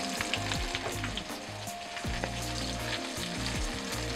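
Battered smelt frying in a shallow layer of hot oil in a pan: a steady sizzle with scattered crackling pops.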